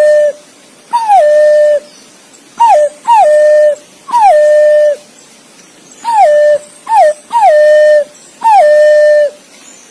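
Green pigeon (punai) calling: a run of loud, clear whistles, each sliding down and then held on a steady lower note for up to a second. The whistles often come in pairs, a short falling one followed by a longer held one, with brief gaps between.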